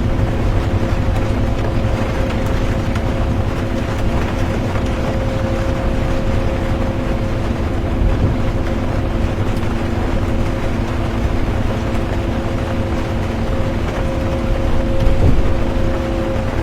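Inside a moving bus: steady engine and road rumble with a constant drivetrain hum, under an even hiss of rain on the bus. The loudness swells briefly about fifteen seconds in.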